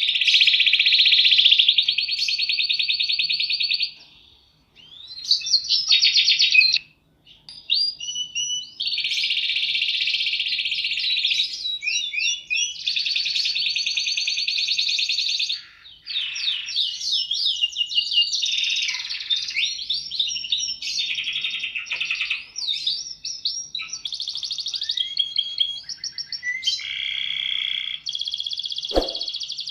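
Domestic canary singing a long song of fast rolling trills and chirps, with short pauses about four and seven seconds in. A single soft knock near the end.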